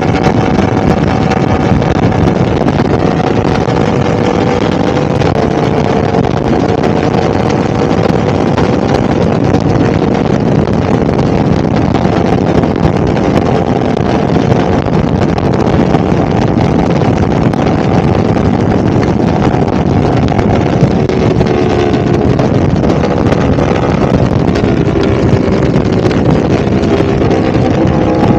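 2022 Yamaha R1's crossplane inline-four engine running at a fairly steady pitch, with wind noise on the microphone.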